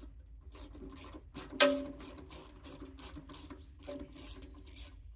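Socket ratchet clicking in quick strokes, about two or three a second, as a 10 mm fastener is undone. The loudest click comes about one and a half seconds in.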